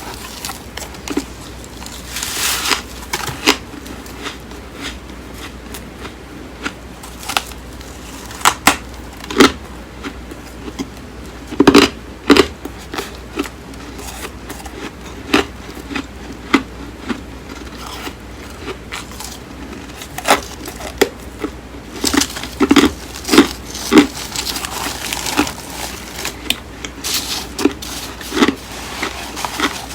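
Flaky, crisp freezer frost being bitten and chewed: sharp crunches and crackles in irregular clusters, loudest a little before halfway and again about three quarters through.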